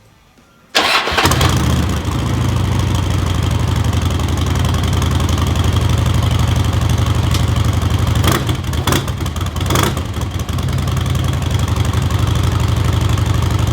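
2008 Harley-Davidson Electra Glide's 96-cubic-inch V-twin engine starting on the first try under a second in and then idling steadily and loudly: the first start of an auction bike bought as a non-runner. A few brief sharp changes in the running come about eight to ten seconds in.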